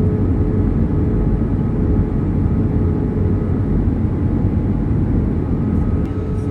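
Steady pink noise: an even, deep hiss heavier in the lows, with a faint steady hum over it.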